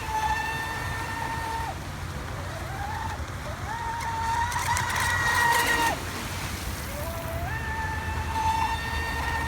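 Brushless electric motor of a radio-controlled Proboat Voracity speedboat whining at high pitch in throttle bursts: each time the whine climbs as the boat speeds up, holds, then cuts off. The whine stops about two seconds in, comes back in a short rise and a longer run near the middle with hissing spray, and again in the last couple of seconds.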